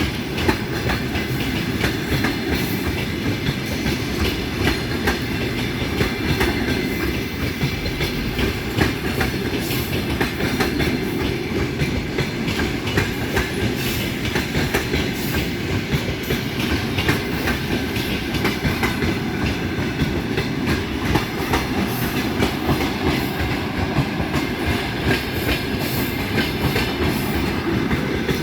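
Passenger train's coaches rolling past steadily, wheels clacking over the rail joints with a continuous rumble.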